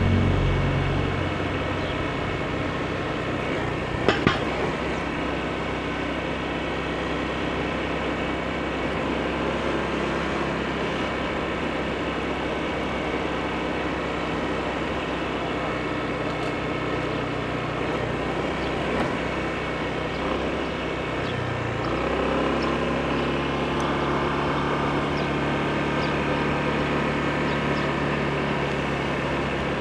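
Honda PCX scooter engine running steadily under way, with road noise. A sharp double knock comes about four seconds in, and the engine note shifts and rises a little after about twenty-two seconds.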